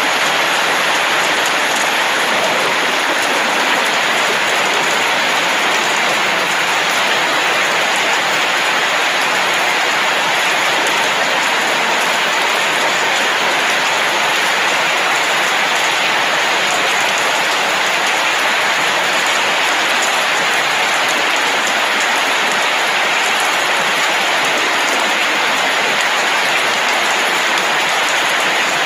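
Steady rain falling at night, a dense, even hiss that neither builds nor fades.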